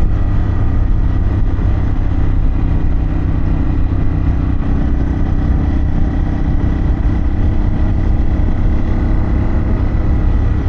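Harley-Davidson Pan America's 1250 cc V-twin running at a steady cruising speed, heard from on the moving bike, with no revving or shifting.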